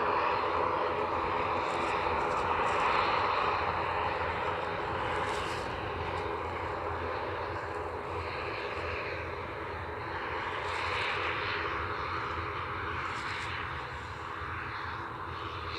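Airliner's engines running steadily as the aircraft moves at the airport, the sound slowly fading.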